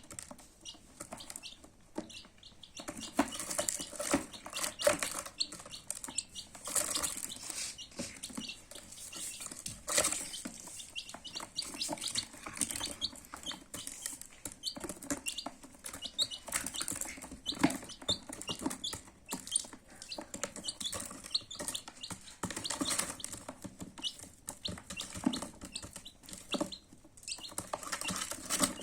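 Baby chicks peeping over and over in short, high calls, with frequent knocks and scratching noises among them.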